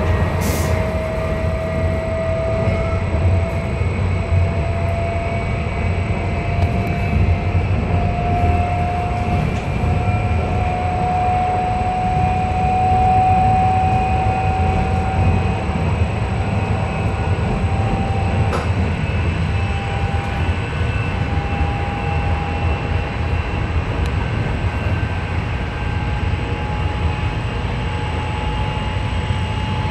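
Swiss S-Bahn electric passenger train running at speed, heard from inside the carriage: a steady low rumble of wheels and running gear. Over it a whine climbs slowly in pitch as the train gathers speed.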